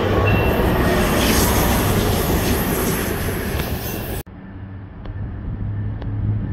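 A train running past on the track close by: loud, steady rail and wheel noise with a brief high wheel squeal near the start. It cuts off suddenly about four seconds in, leaving a much quieter low hum with a few faint clicks.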